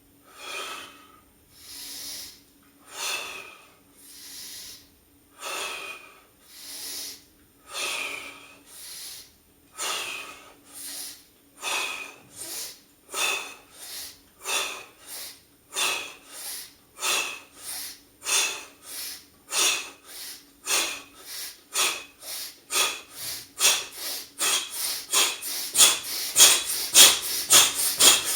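A man's rhythmic breathing, in through the nose and out through the mouth. The breaths speed up steadily from slow to about three a second and grow louder toward the end as the rate builds.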